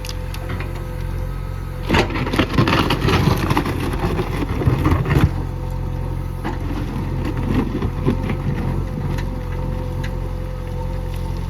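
Heavy diesel engine of a working backhoe loader running steadily. From about 2 to 5 s there is a loud burst of crunching and rattling, typical of soil and stones being scooped or dumped.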